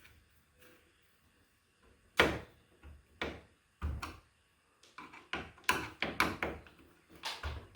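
A series of sharp knocks and clicks from hand work on a garage door's metal reinforcing bracket and its screws. A few spaced knocks start about two seconds in, and a quicker run of clicks follows near the end.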